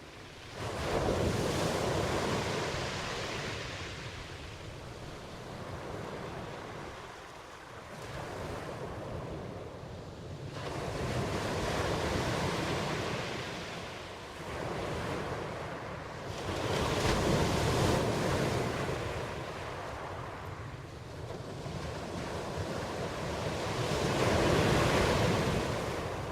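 Ocean surf: waves breaking and washing in, the rushing sound swelling and fading in slow surges several seconds apart.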